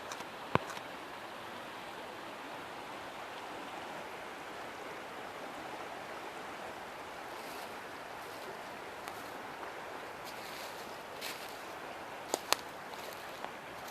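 River water flowing in a steady rush. A sharp click sounds about half a second in, and two more come close together near the end.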